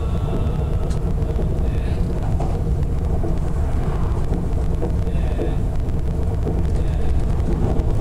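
Running noise heard inside an Odakyu 60000 series MSE Romancecar, car DeHa 60201, which has Toshiba IGBT-VVVF drive and fully enclosed traction motors: a steady, even rumble of wheels on rail at constant speed, with no rising or falling motor whine. Brief faint high-pitched tones show up a few times over the rumble.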